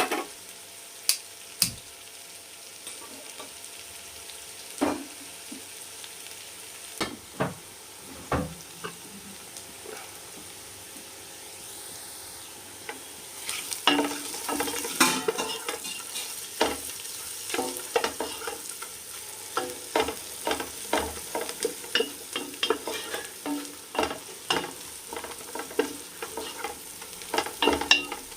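Thinly sliced onions frying in oil and ghee in a pan, a steady sizzle, with a spoon knocking and scraping against the pan as they are stirred: a few strokes in the first half, then steady stirring from about halfway.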